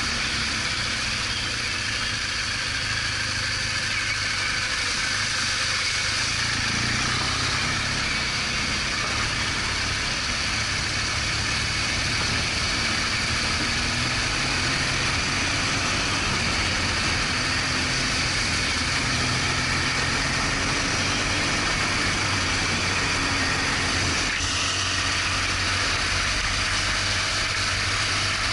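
BMW R1200GS Adventure's boxer-twin engine running steadily on the move, under a constant rush of wind and road noise, with the engine pitch drifting slightly up and down.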